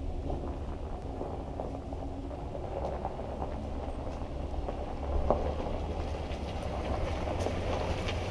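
An engine running steadily with a low, even rumble, with a brief louder knock about five seconds in.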